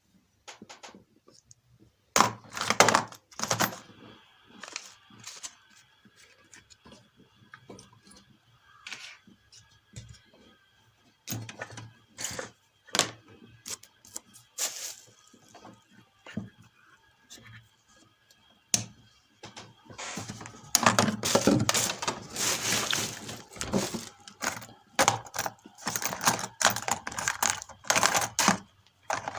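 Irregular clicks, taps and clattering of tools and parts being handled on a workbench. They are sparse at first and become a dense, continuous clatter for the last several seconds.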